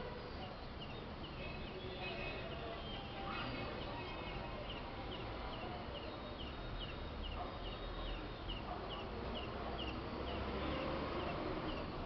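Small birds chirping: scattered calls at first, then from about four seconds in a steady series of short high chirps, two or three a second, over steady background noise.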